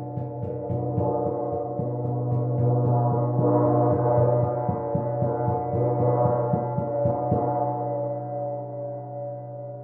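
Large gong played with a rapid, soft mallet roll that swells in loudness, then stops about seven and a half seconds in, leaving the gong ringing and slowly fading.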